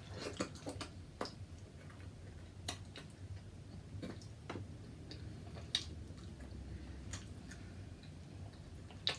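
Quiet eating sounds: about ten sharp mouth clicks and smacks at irregular intervals, with soft chewing, over a faint low room hum.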